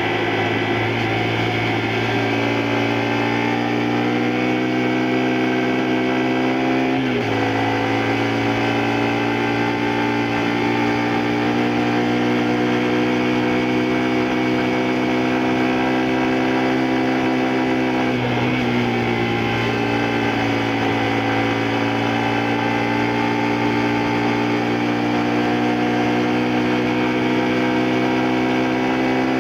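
Honda Varadero 125's small V-twin engine pulling steadily on the move, its pitch climbing slowly and dropping sharply twice, at about seven and about eighteen seconds in, as gear changes.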